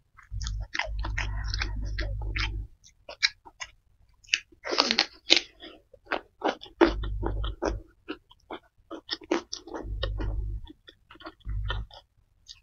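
Close-miked chewing of a mouthful of food: wet mouth clicks and crunching that come and go, with one louder burst about five seconds in.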